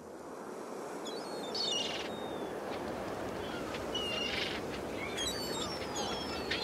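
Small birds chirping, short high calls scattered through, over a steady hiss.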